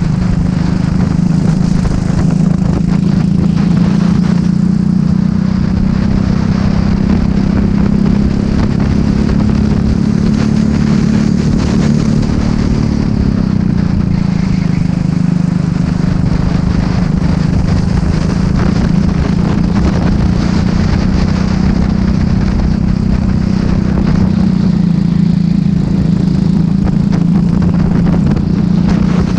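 Racing kart engine running hard under race load, its note held mostly steady, then dipping and climbing back about halfway through.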